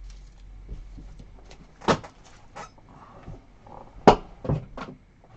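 Trading cards and boxes being handled on a table, with a few light knocks and rustles. The sharpest knocks come about two seconds in and about four seconds in.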